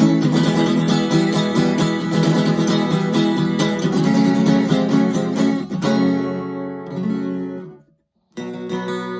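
Kramer Ferrington KFS-2 thin-body acoustic-electric guitar being strummed: busy chord strumming that gives way to chords left to ring and fade, a sudden half-second gap of silence near the end, then playing again.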